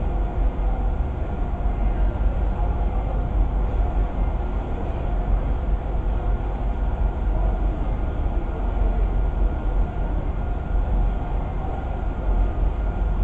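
Steady low rumble of a ship's engines and machinery, with a faint steady hum over it.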